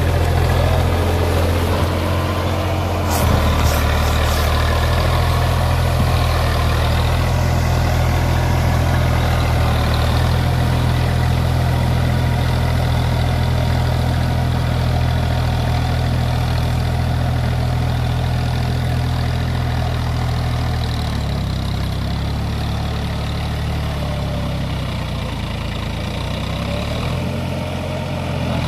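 Massey Ferguson tractor's diesel engine running steadily, its note shifting about three seconds in and again about twenty-one seconds in.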